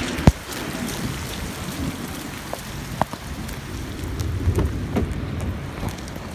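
Steady rain falling, with a loud sharp knock just after the start and another about three seconds in, and a few lower bumps a little later.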